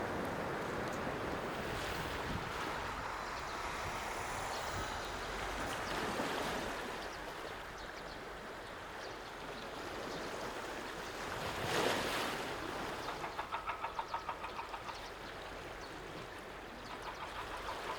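Sea waves washing onto the shore, swelling to a louder surge about two-thirds of the way through. A fast, even pulsing sound joins in soon after the surge and comes back near the end.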